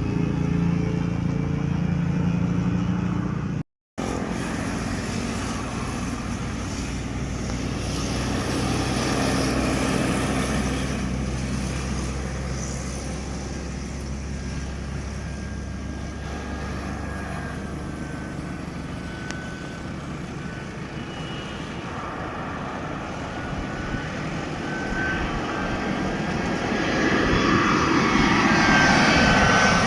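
Landing aircraft's engines rumbling on approach, growing steadily louder over the last few seconds with a thin steady whine above the rumble.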